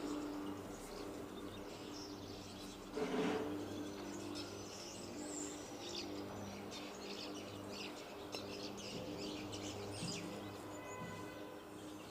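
Outdoor birds chirping and tweeting, many short calls throughout, over a faint steady low hum. A brief louder noise comes about three seconds in.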